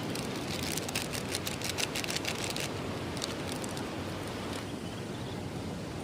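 Steady sea-surf and wind noise, with a quick flurry of small sharp ticks through the first half, a few more just after.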